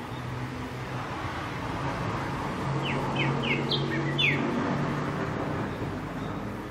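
Backyard ambience: a bird gives a short run of quick, falling chirps around the middle, over a steady hum of distant traffic that swells and eases off.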